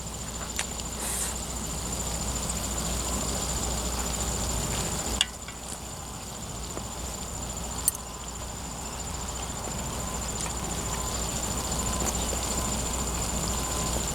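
Steady outdoor background with an insect's continuous high trill, broken by two sharp clicks, about five and eight seconds in.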